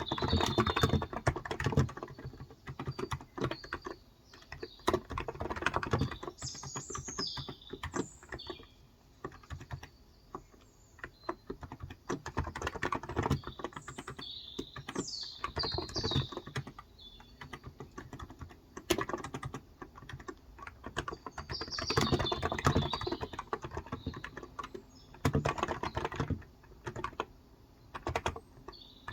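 Typing in bursts of quick keystrokes with short pauses, on a Cox Endeavor tenkeyless keyboard with electro-capacitive (Topre-style) 35 g switches. Birds chirp a few times over the typing.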